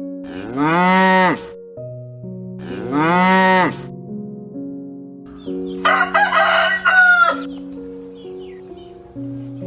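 A cow mooing twice, each moo about a second long and rising then falling in pitch, over background music of held keyboard notes. About halfway through comes a short burst of harsher chicken calls.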